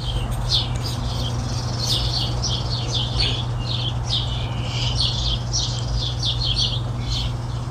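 Birds chirping busily, many short calls in quick succession, over a steady low hum.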